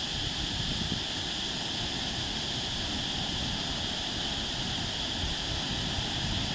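Steady wash of sea surf and wind, with wind buffeting the microphone.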